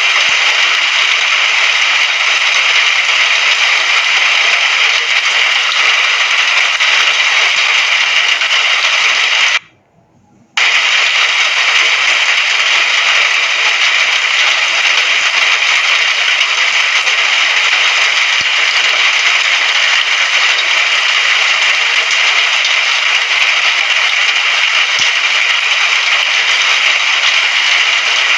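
Steady hiss of heavy rain, even and unchanging, that cuts out for about a second roughly a third of the way through and then resumes at the same level.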